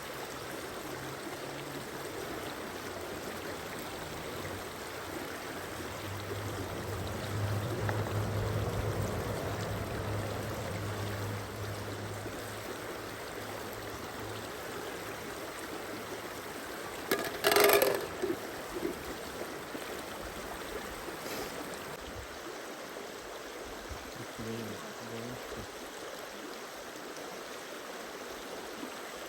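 A stream flowing with a steady rush of water. About eighteen seconds in there is one brief, louder noise, and in the first half a low hum rises and fades.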